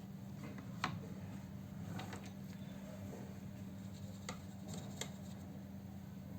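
A few light, sharp clicks and taps, about four in all, over a steady low hum.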